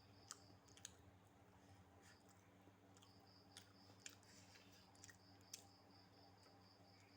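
Near silence with a steady low electrical hum, broken by several faint, short, sharp clicks at irregular intervals.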